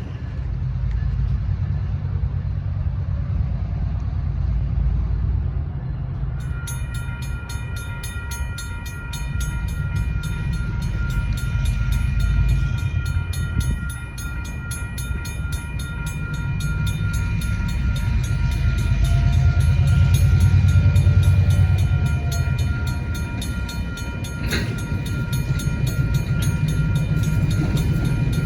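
EMD MP15DC diesel switcher locomotive with its 12-cylinder 645 engine rumbling past with a freight train. A high, steady ringing joins about six seconds in.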